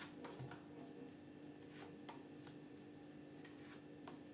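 Near silence with a faint steady hum, broken by a few soft, scattered clicks and rustles of tarot cards being handled and drawn.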